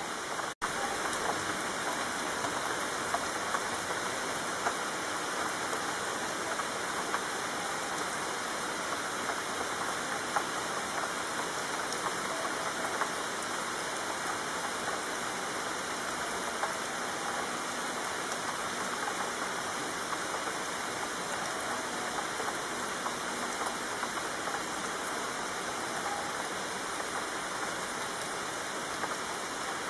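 Steady rain falling: a dense, even hiss with scattered small drop impacts. The sound cuts out for an instant about half a second in.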